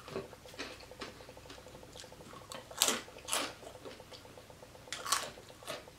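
Chewing crisp fried pork rind close to the microphone: a few separate crunches, the loudest about three and five seconds in.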